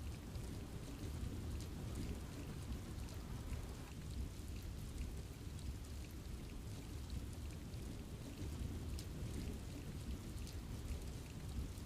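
Steady rain falling in a forest: an even hiss, heaviest in the low end, with many separate drops ticking close by.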